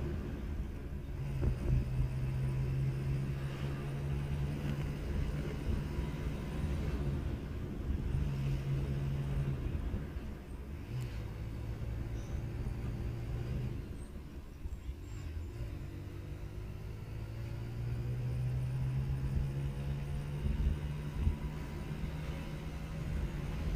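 Motorcycle engine running while riding at speed, over a constant low rumble of wind and road. The engine note eases off and picks up again a few times.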